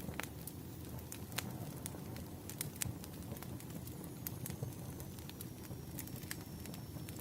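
Firewood burning in a fire, crackling and popping irregularly over a steady low rumble of flame.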